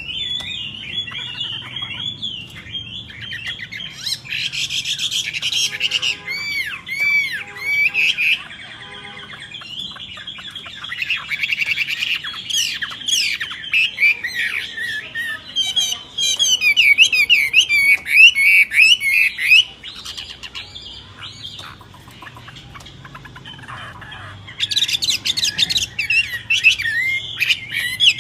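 Songbirds calling and singing: a dense, varied run of chirps, looping whistles and harsh squawks, quieter for a few seconds past the middle and louder again near the end.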